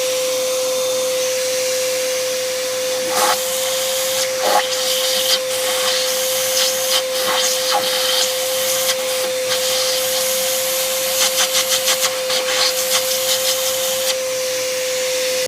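Small wet/dry shop vacuum running with a steady whine and rush of air, sucking metal shavings out of a freshly tapped oil drain plug hole, with scattered clicks and rattles partway through; it switches off at the end.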